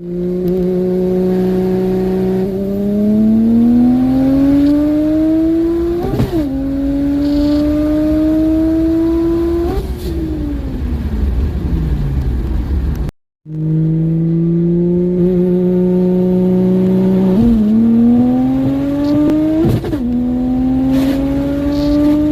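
BMW N54 3.0-litre inline-six, converted to a single 62mm top-mount turbo, accelerating hard at full throttle. The engine note climbs steadily through each gear and drops sharply at every quick manual upshift. It winds down after the second shift, then the sound cuts out about 13 seconds in and a second full-throttle pull begins, climbing through three more shifts.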